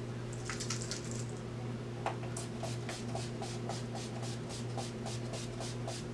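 Pump bottle of makeup setting spray misting: a short hiss about half a second in, then from about two seconds on a run of quick, short spritzes and clicks from the pump. The bottle is almost empty. A steady low electrical hum runs underneath.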